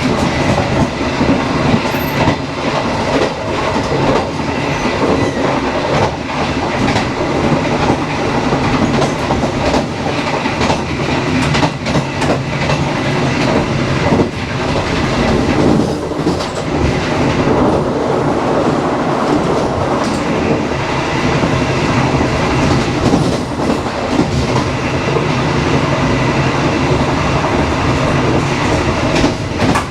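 Dharmawangsa passenger train running at speed: a steady rumble with the clickety-clack of wheels over rail joints and many irregular sharp knocks.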